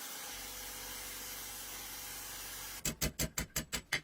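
Steady hiss of a spray gun. Near the end it gives way to a fast, even run of sharp knocks, about five a second.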